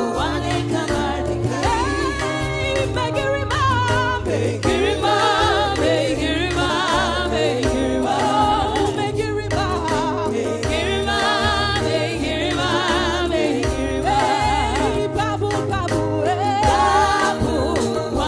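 Gospel worship music: a group of voices singing with vibrato over a band with a steady pulsing bass.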